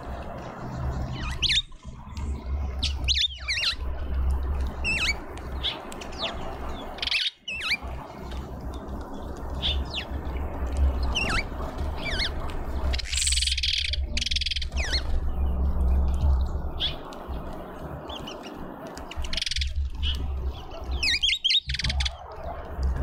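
Small birds chirping at a garden feeder: many short, high calls scattered through, with a harsher, noisier burst about two thirds of the way in, over a steady low rumble.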